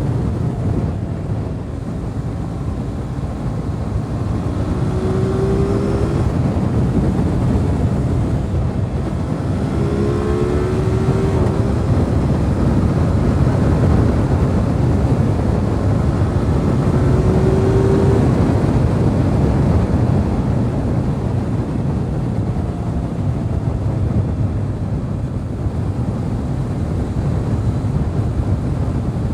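Aprilia RS 660's parallel-twin engine running under way at riding speed, mixed with wind rush, with a few short rising engine notes about a fifth, a third and three-fifths of the way through.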